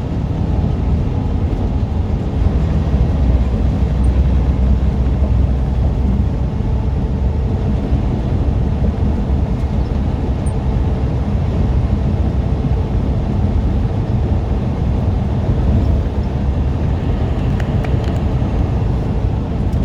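Heavy truck's diesel engine droning steadily at cruise with tyre and road noise, heard from inside the cab.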